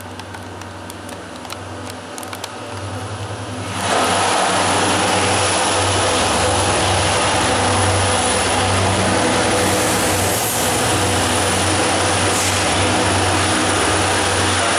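Low hum inside the lift car with a few light clicks, then about four seconds in a loud steady roar of a train at the station platform cuts in suddenly and holds.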